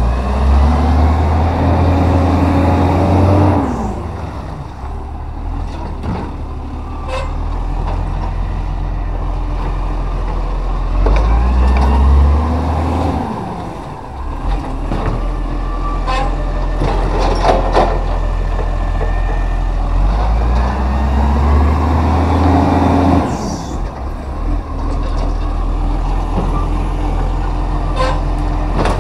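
Side-loader recycling truck's diesel engine revving up and down three times, about ten seconds apart, as it powers the hydraulic arm through its bin lifts, with knocks and clatter in between.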